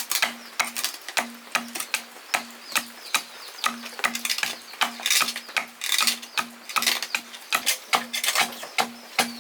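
Quick, steady series of sharp knocks or taps, about three a second, with a faint low hum pulsing in time with them.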